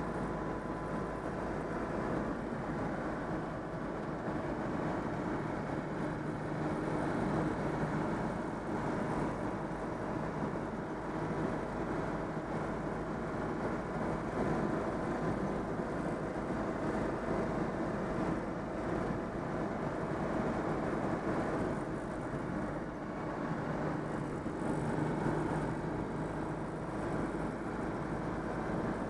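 Citroën 2CV AZLP's 425 cc air-cooled flat-twin engine running steadily on a drive, with road noise underneath, the engine freshly overhauled.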